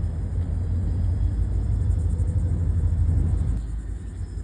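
Low, steady rumble of a diesel locomotive working nearby, easing off somewhat near the end.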